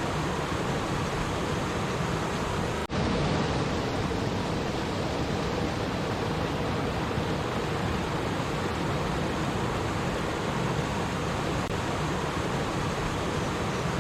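Steady rushing and babbling of flowing stream water, unbroken except for an instant's dropout about three seconds in.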